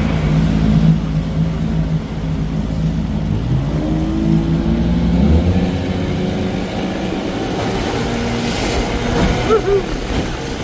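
Johnson 20 hp two-cylinder two-stroke outboard motor running under way on a small aluminium boat. It is steady at first; about four seconds in its tones slide up in pitch and then give way to a rougher, less even running sound.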